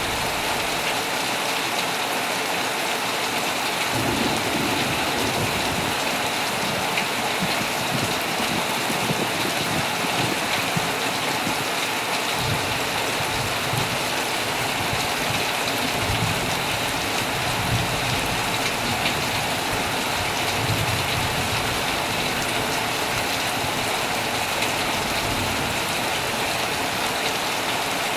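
Heavy rain drumming steadily on a tent, with low, soft rumbles of distant thunder coming and going.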